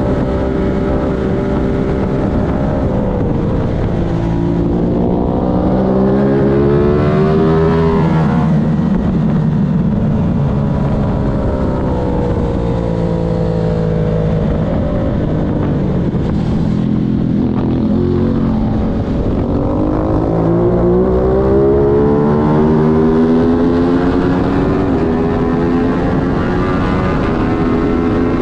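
Aprilia racing motorcycle engine at race pace, heard from on board: the revs climb steadily twice, about four seconds in and again past the halfway point, easing back to steadier, lower running between.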